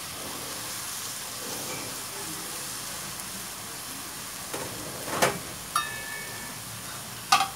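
Chicken and onions frying in oil in a pan with freshly added grated tomato, a steady sizzle. Past the middle come a few sharp knocks and a short ringing clink as a ceramic bowl is set down on a steel tray, and another knock near the end.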